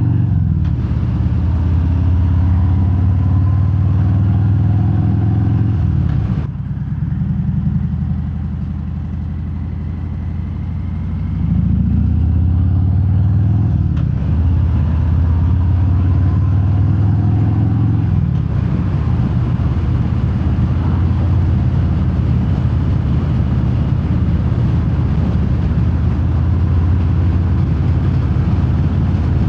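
Harley-Davidson Fat Bob's Milwaukee-Eight V-twin through Vance & Hines Hi-Output slip-on mufflers with no quiet inserts, heard from inside the rider's helmet while riding. The engine note drops about six seconds in and runs quieter for about five seconds, then picks up again and holds steady.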